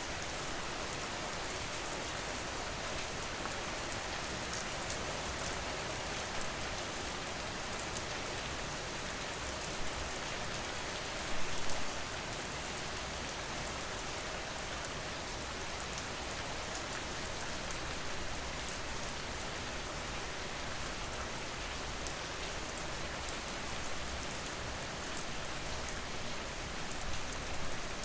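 Steady rain falling on a surface, an even hiss with scattered drop ticks and a brief louder gust of patter about eleven seconds in.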